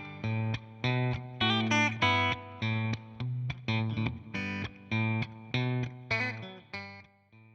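Guitar picking a melodic phrase, single notes and chord tones struck in quick succession, dying away near the end.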